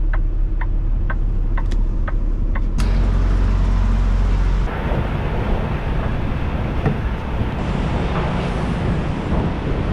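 Semi truck driving, heard from inside the cab: a steady low engine rumble with a light regular ticking about twice a second, which gives way after a few seconds to louder, hissier road and wind noise.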